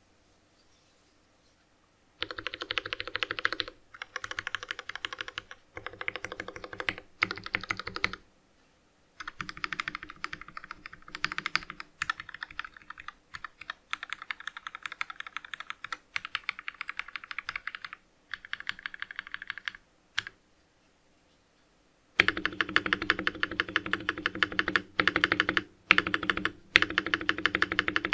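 Typing on a VX7 Pro mechanical keyboard fitted with Durock POM switches: fast runs of key clicks in several bursts, starting about two seconds in, with short pauses between them.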